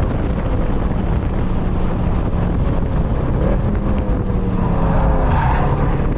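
Mercedes C63 AMG's 6.2-litre V8, with its secondary cats and resonators deleted, running hard at track speed. Wind noise is on the microphone. The engine note falls in pitch in the second half as the car slows.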